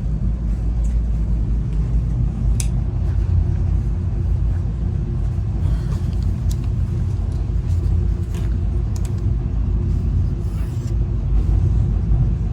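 Steady low rumble of a passenger railcar rolling along the track, heard from inside the car, with a few faint clicks.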